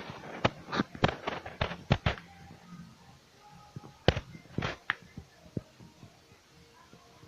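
A series of sharp knocks and taps, about ten in quick succession over the first two seconds, then a few more between four and five seconds in.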